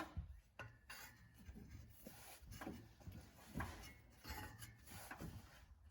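Faint, scattered clicks and knocks of hand tools being worked against a stuck exhaust bolt.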